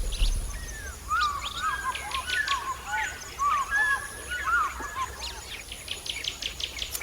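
Budgerigar chattering: a busy run of short, quick chirps and warbling notes that starts about a second in and tails off near the end.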